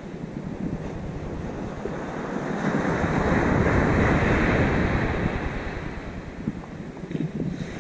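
Rough sea surf: a wave breaks and washes in, swelling a couple of seconds in and fading away by about six seconds, with wind buffeting the microphone.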